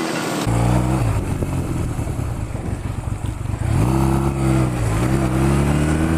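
Motorcycle engine running, with a deep rumble coming in suddenly about half a second in. The revs rise around the middle, dip briefly, then climb again.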